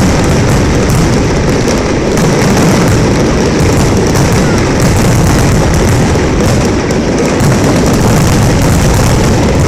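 Fireworks going off in a dense barrage, the bursts running together into a continuous loud rumble.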